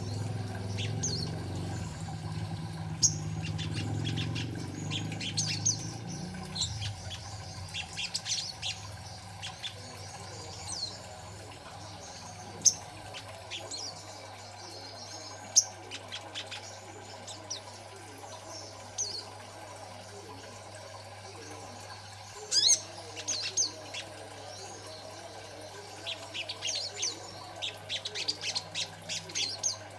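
Young little spiderhunter (sogok ontong) giving short, sharp, high chirps in irregular bursts, thickest near the end. A steady low hum runs underneath, with a low rumble in the first few seconds.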